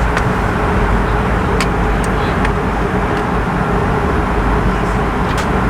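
Steady in-flight cabin noise of an Airbus A220 at cruise: a constant low rushing of airflow and Pratt & Whitney geared turbofan engines with a faint steady hum, and a few faint clicks.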